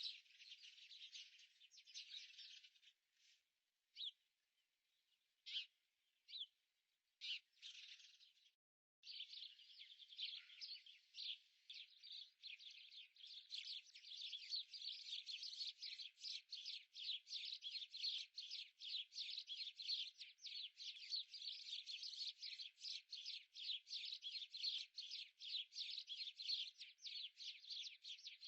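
Faint, high-pitched chirping of small birds, a few scattered chirps at first, then from about a third of the way in a dense, rapid run of chirps several to the second.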